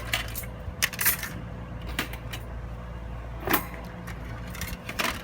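Metal parts of a folding camp fire stand clinking and rattling as they are handled and opened, in several short bursts, over a steady low hum.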